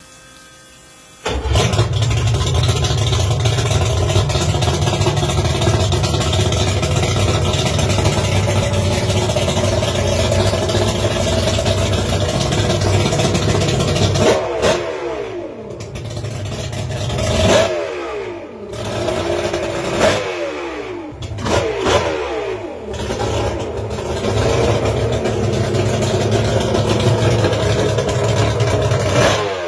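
Mercury 2.5 outboard engine catching about a second in and running steadily at high revs. In the second half it is throttled back and revved up again several times, the pitch falling and sweeping back up with each blip.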